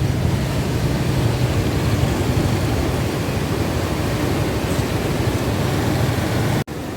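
Rough monsoon sea and strong wind, a steady heavy rumbling noise with the wind buffeting the microphone. It cuts out abruptly near the end and comes back quieter.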